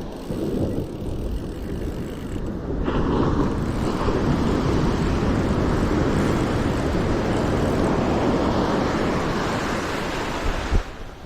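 Ocean surf breaking and washing up the beach, with wind on the microphone; the rush grows louder about three seconds in and falls away near the end.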